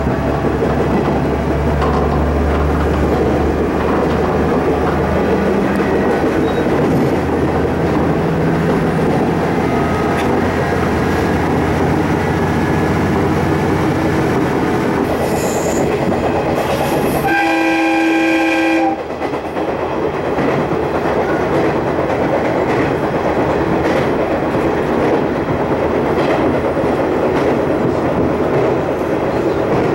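Electric train running at speed, heard from just behind the driver's cab: a steady rumble of wheels on the rails, heavier and deeper over the first half. A single horn blast of about a second and a half sounds a little past halfway through.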